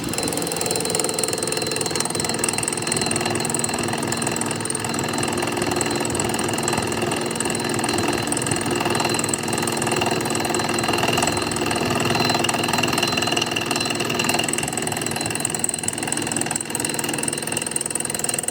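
A machine running steadily, a dense mechanical noise with several steady tones that holds through the whole stretch.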